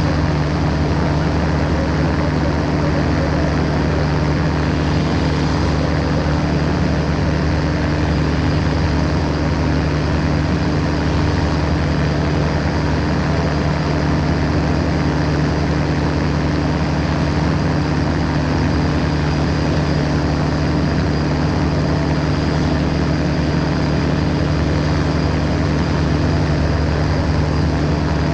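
Ultralight aircraft's engine and propeller running at a steady, unchanging drone.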